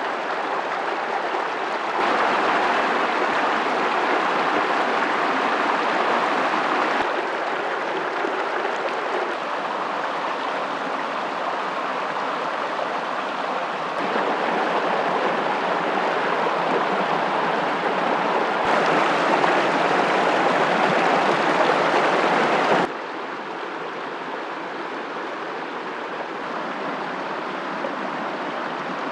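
Steady rushing noise of running water, jumping abruptly louder or quieter several times as one stretch of water sound gives way to another.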